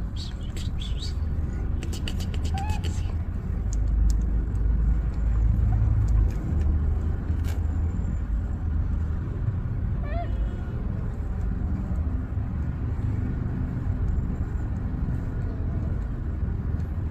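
Steady low rumble with a few faint, short, high-pitched cat meows: a couple near the start and one about ten seconds in.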